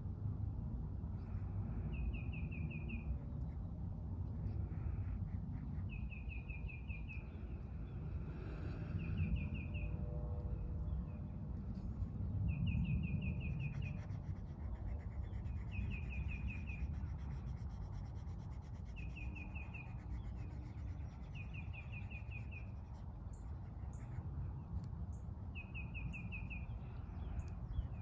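A bird repeating a short, even trill of quick notes every two to four seconds over a steady low outdoor rumble.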